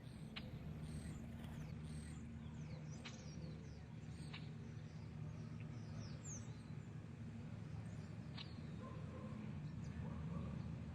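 Faint bird chirps, a few short calls spread through, over a low steady hum.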